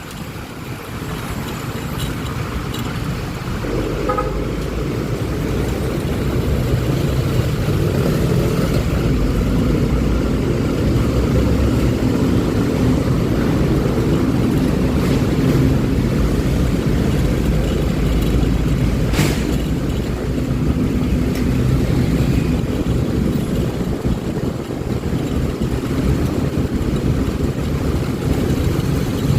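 Honda Click 125i scooter under way in road traffic: a steady low rumble of its engine and the air rushing past, building over the first few seconds as it picks up speed, then holding. One short sharp tick about two-thirds of the way through.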